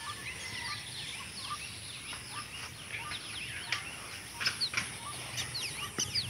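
Small birds chirping, many short quick chirps and whistles overlapping, over a faint steady outdoor hiss.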